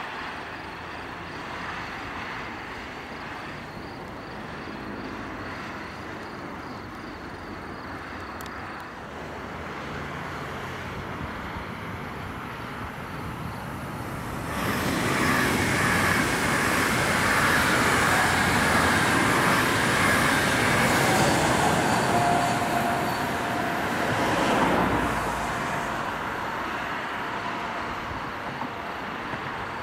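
Intercity train hauled by a DB Class 101 electric locomotive passing close by: loud rolling noise of wheels on rail that comes in suddenly about halfway through, with a brief steady whine near the end of the pass, then eases off a few seconds before the end. Before it comes, a quieter steady rumble of distant traffic.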